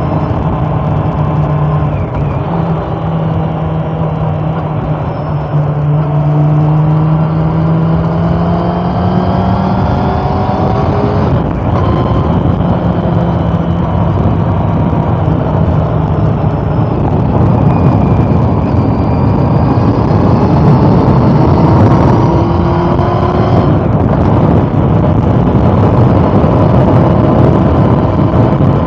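Honda CB400 Super Four's inline four-cylinder engine running under way, its pitch climbing as it accelerates, with a gear change partway through and another near the end. Wind rush on the microphone rises along with it.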